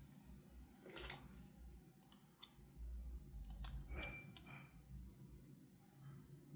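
Faint scattered clicks and small handling noises, half a dozen sharp ones spread over a few seconds, as of hands working a boxed doll and its plastic packaging.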